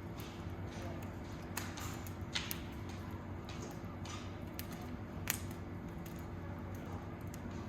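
Burning wood crackling, with irregular sharp pops, the loudest about five seconds in, over a steady low hum.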